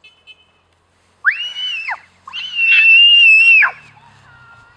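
A young child squealing in very high-pitched shrieks: a short rising-and-falling one about a second in, then a longer held one.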